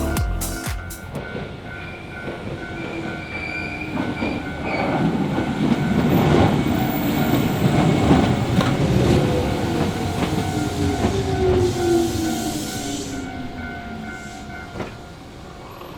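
Shizuoka Railway electric train passing over a level crossing, its wheels clattering on the rails, with a motor whine that falls steadily in pitch. A short hiss comes near the end of the passage. The crossing's electronic warning bell rings throughout.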